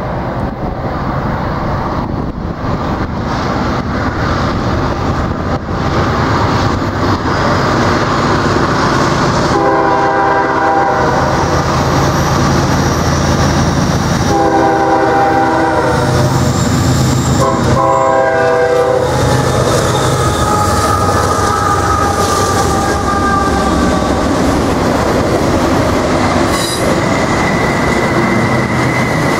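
Norfolk Southern diesel locomotives approaching under power, their engine rumble growing louder. The lead unit sounds its chime air horn in three blasts as a salute about a third of the way in. Then double-stack intermodal cars roll past, wheels clacking over the rail joints and squealing on the curve.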